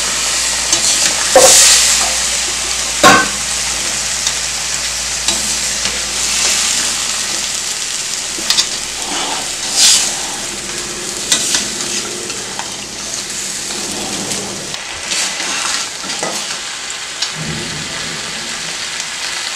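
Crab pieces sizzling in hot oil and masala paste in a stainless steel kadai, being stirred with a steel spatula. A steady frying hiss runs throughout, with the spatula knocking and scraping against the pan several times.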